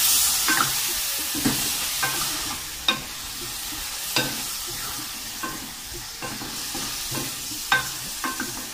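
Chicken and tomato chunks sizzling in hot oil in a metal karahi while a wooden spoon stirs them. The spoon knocks and scrapes against the pan about a dozen times at uneven intervals, over a steady frying hiss that eases a little.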